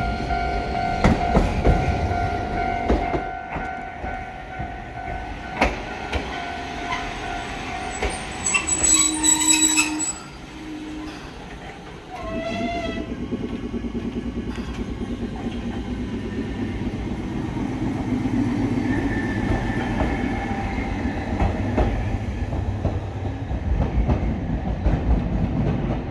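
Hankai Tramway streetcar heard from aboard. Steady humming tones sound at first, and a brief high signal comes about nine seconds in. From about twelve seconds the tram runs along the rails with a steady rumble.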